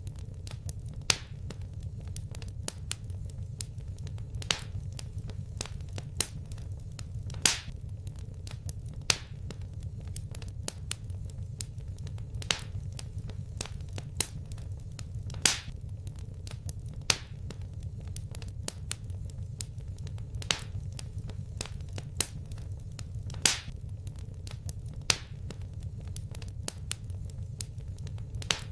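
Wood fire crackling, with frequent small snaps and a sharp, louder pop every second or two over a low, steady rumble.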